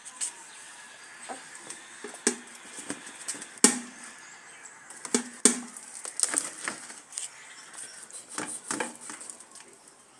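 A knife cutting up a whole chicken: irregular clicks and knocks, the sharpest about three and a half and five and a half seconds in.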